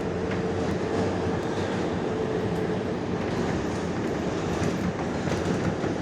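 R142A subway car running between stations, heard from inside: a steady rumble of wheels on rail with faint clicks. A steady hum fades out about halfway.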